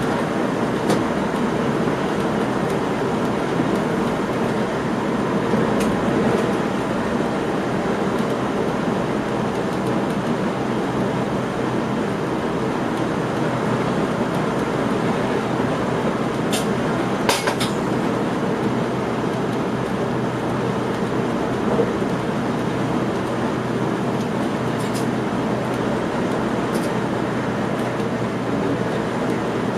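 Cab of an electric passenger train running along the line: a steady rumble of wheels on rail with a constant hum. A few sharp clicks come through, the loudest cluster about 17 seconds in.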